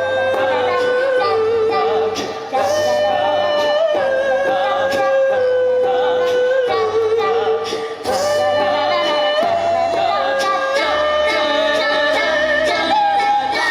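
Small choir singing a melody in long held notes that step up and down, over a low pulsing bass part.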